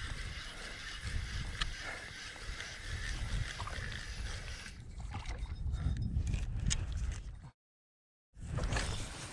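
Water lapping and gurgling against a kayak hull, over a steady low rumble and a light hiss with small ticks. The sound cuts out completely for under a second near the end, then comes back.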